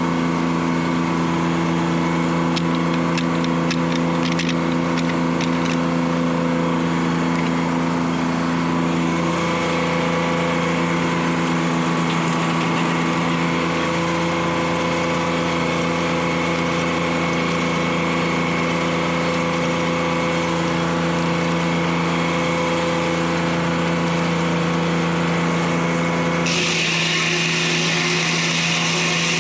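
Detroit Diesel 3-71 engine running steadily under the sawmill, a constant multi-toned drone. Near the end a harsher, hissing higher noise suddenly joins it.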